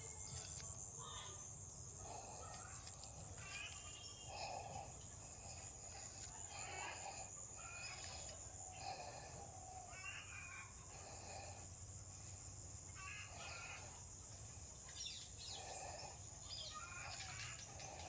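Faint outdoor rural ambience: a steady high-pitched insect drone with short chicken calls every couple of seconds.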